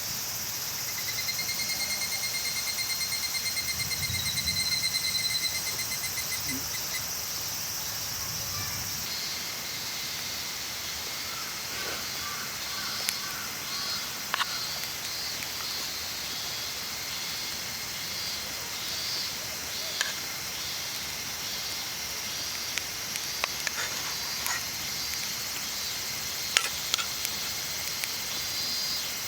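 Outdoor insect chorus with a steady high chirring. A rapid pulsed trill, typical of a singing insect close by, runs for the first several seconds. Occasional sharp clicks and taps follow in the second half.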